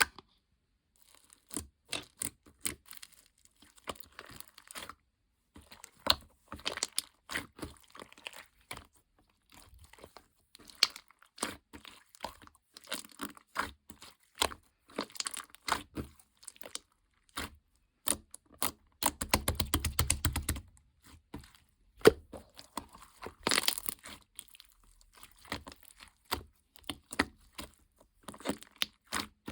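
Stationery being handled: paper and stickers peeled and rustled, crinkling, with many light taps and clicks. There is a denser spell of rustling a little after the middle.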